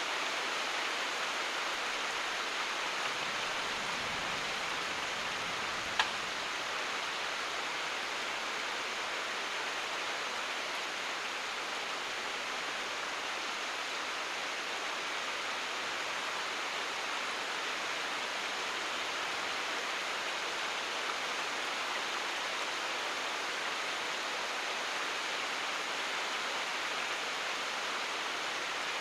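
Steady, even rainfall, a dense continuous patter of rain, with a single sharp tick about six seconds in.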